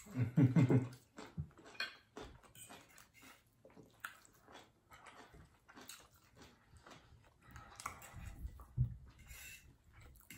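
Close-miked chewing and lip smacking of people eating salmon and mashed potatoes, with many small clicks. A short hummed voice sound comes in the first second, and a low murmur near the end.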